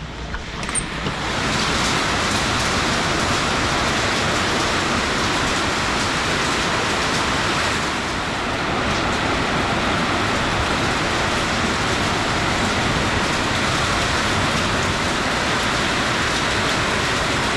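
Heavy storm rain pouring down steadily. It swells to full strength about a second in.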